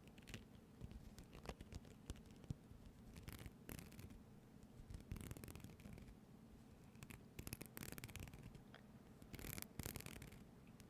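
Faint, close-up scratching and brushing strokes with scattered light clicks and taps, from small objects handled near the microphone.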